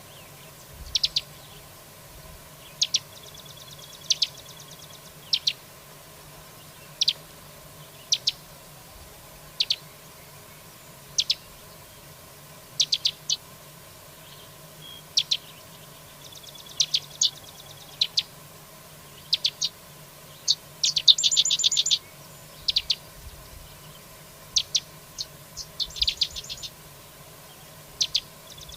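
Songbird known in Mexico as the carrizalero calling: short, sharp chip notes, singly or in twos and threes, about every second and a half, with a few rapid buzzy trills, the loudest about two-thirds of the way through.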